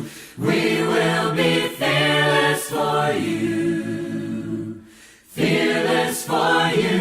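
A choir singing a slow song a cappella, in long sung phrases with two short breaks for breath, one just after the start and one about five seconds in.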